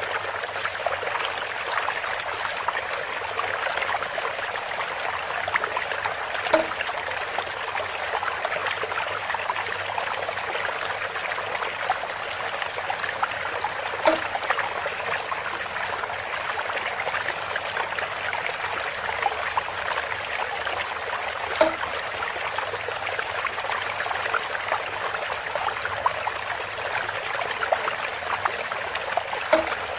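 Water trickling steadily through a bamboo spout, with a short hollow knock about every seven and a half seconds, four times.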